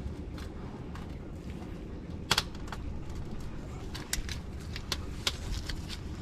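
Scattered sharp metal clicks and knocks of a socket wrench being fitted to and worked on the transmission's tight 17 mm fill bolt, the loudest a little over two seconds in.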